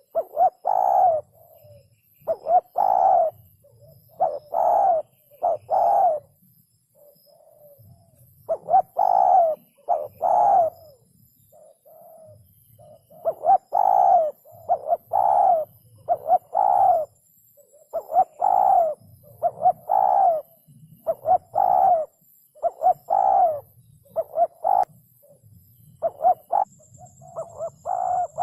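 Spotted dove cooing: a steady string of short, low coo phrases repeated about every second and a half, broken by a couple of brief pauses.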